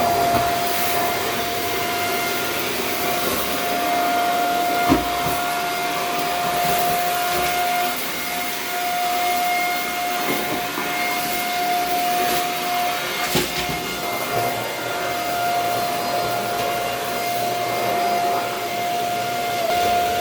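Small vacuum cleaner running steadily, a constant whine over a rushing hiss. Two brief sharp knocks sound through it, about 5 and 13 seconds in.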